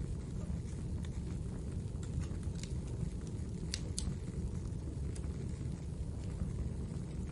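Wood fire burning in a fireplace: a steady low rumble of flames with scattered small crackles, and two sharper pops close together about halfway through.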